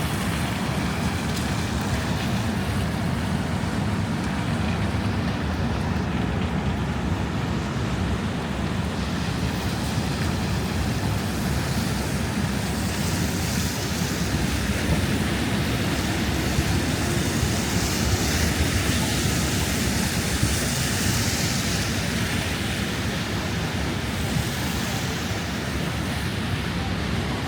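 Strong wind rushing over the microphone in a steady roar, heaviest in the low rumble, with a lighter hiss of city street noise above it.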